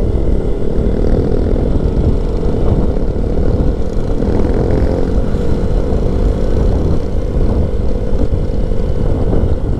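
Keeway 152 motorcycle engine running at a steady cruise under a heavy low rumble, heard from the rider's microphone while riding.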